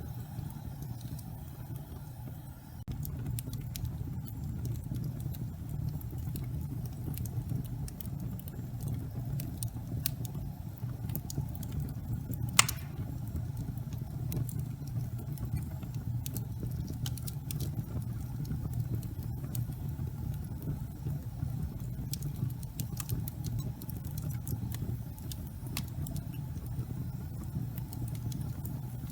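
Fireplace fire burning: a steady low rumble of flames, a little louder from about three seconds in, with scattered small crackles and one sharp pop about halfway through.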